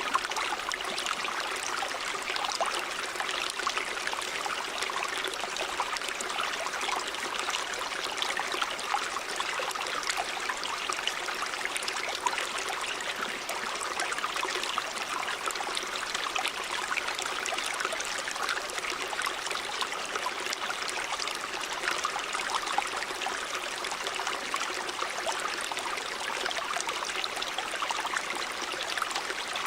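River water running over rocks: a steady rushing and babbling with fine splashes and gurgles, even throughout.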